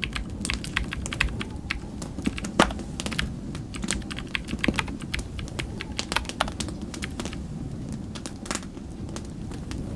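Wood fire in a fireplace crackling and popping in irregular sharp snaps, one loud pop about two and a half seconds in, over a steady low rumble of snowstorm wind.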